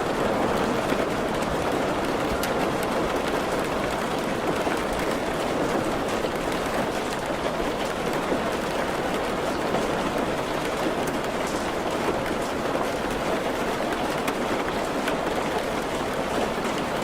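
Steady rain falling, an even wash of noise that holds at one level throughout.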